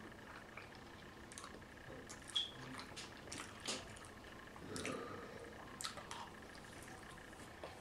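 Close-up eating sounds: a person chewing with scattered wet lip smacks and mouth clicks, irregular, with a louder, fuller mouthful sound a little after the middle.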